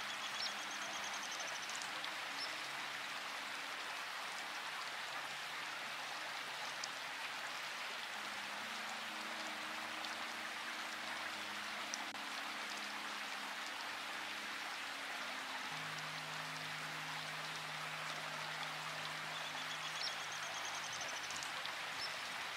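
Steady rain falling as an even hiss, with soft, sustained low music notes changing slowly underneath. A short, high bird trill sounds near the start and again near the end.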